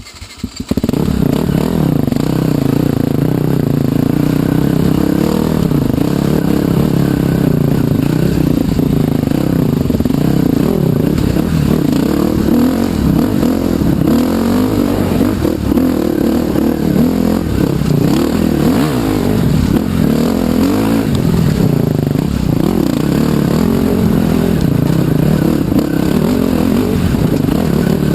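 Trail motorcycle engine running as it is ridden, its pitch rising and falling with the throttle. It starts abruptly within the first second.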